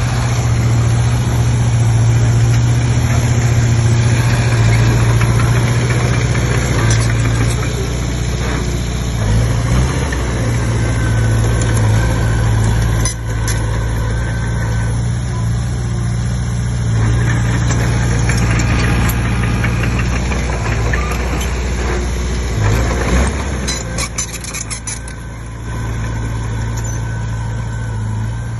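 Komatsu D20P bulldozer's diesel engine running steadily, its pitch and level shifting with the load, with a few sharp metallic clanks and a short drop in engine level near the end.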